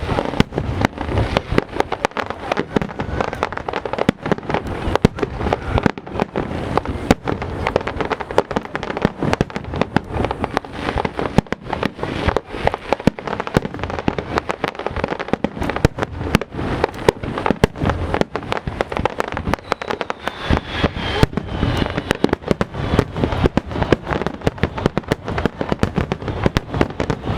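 Aerial fireworks finale barrage: a dense, continuous run of explosions and crackling bursts, many each second.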